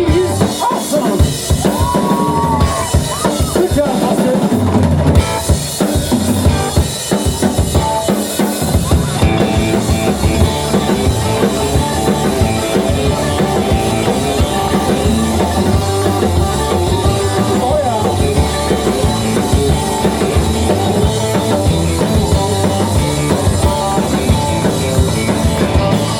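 Live rock band playing an instrumental passage, the drum kit prominent with bass drum and snare, and a steady bass line filling out the low end about eight seconds in.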